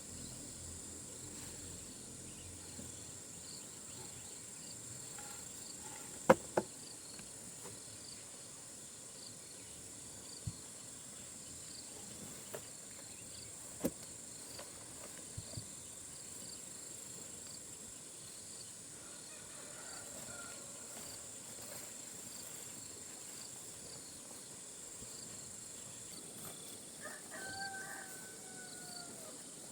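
Steady high-pitched chorus of crickets and other insects. A few sharp knocks or snaps stand out, the loudest a pair about six seconds in, and a short call that bends slightly in pitch comes near the end.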